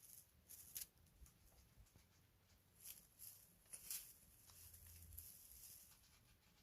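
Faint, scattered scratching and tapping of kittens moving about and playing, with a few short clicks.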